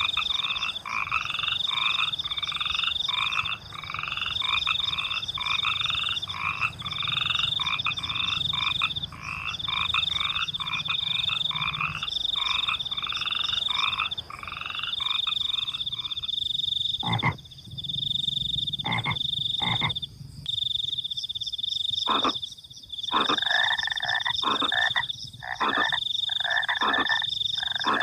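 Frogs croaking in a chorus of quick repeated calls, about two a second, over a high, steady cricket trill that breaks off every second or two. Past the middle the croaking gives way to scattered, sharp single calls while the crickets keep on.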